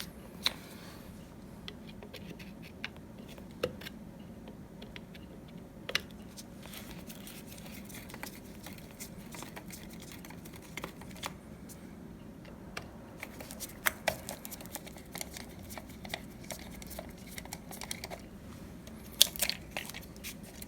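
Scattered small clicks, taps and scrapes of plastic and metal parts being handled as an old wall light switch is taken apart, with a denser run of sharper clicks near the end.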